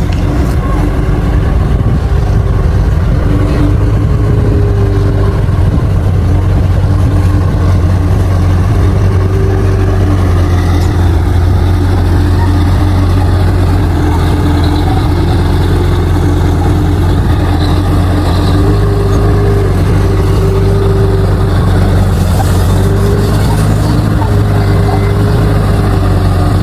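Bulldozer's diesel engine running steadily under load, a loud low drone with a slight wavering in pitch as it works.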